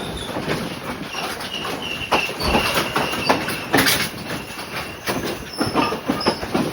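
Train running on the track, its wheels clattering and knocking over the rails, with thin high wheel squeals coming and going through the middle and later part; it gets louder about two seconds in.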